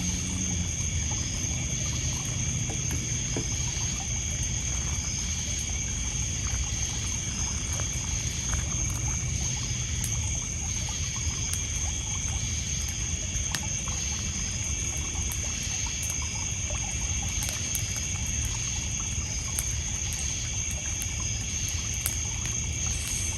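Steady chorus of crickets and other night insects over small waves lapping on a pebble beach, with sparse crackles from a wood campfire.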